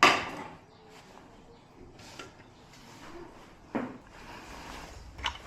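A loud sharp knock, then a few softer knocks and clatters spaced over the next few seconds.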